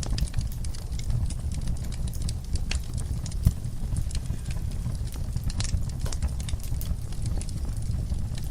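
Wood fire crackling in a fireplace: a steady low rumble of burning with frequent sharp pops and crackles, and one louder pop about three and a half seconds in.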